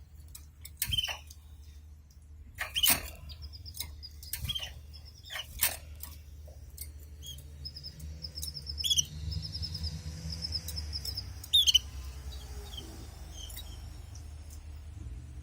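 Canaries giving short high chirps and, through the middle, runs of fast repeated high notes in a trill, mixed with sharp clicks and taps from the birds moving about the cage and nest. A low steady hum lies underneath.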